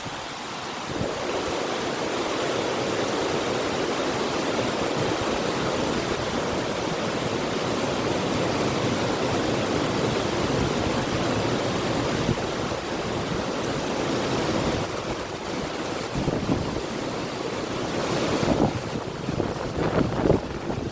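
A river rushing steadily, with wind; low gusty buffeting comes in near the end.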